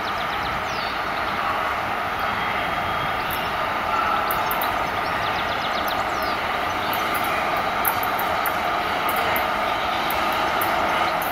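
Electric locomotive hauling a train slowly into the station: a steady running noise of its motors and its wheels on the rails, holding at an even level.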